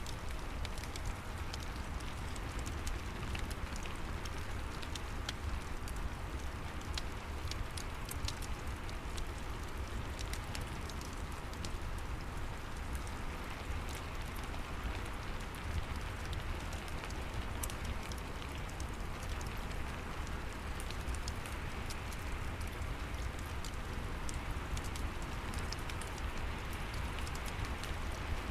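Steady rain falling, mixed with the scattered sharp crackles of a wood fire in a fireplace, over a constant low rumble.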